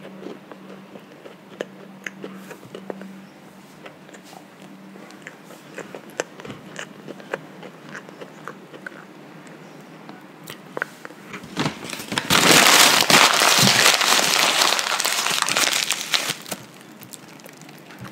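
Close-up chewing of a cereal-topped mini doughnut, with faint crunchy clicks. About twelve seconds in, a paper bag is crumpled loudly for roughly four seconds.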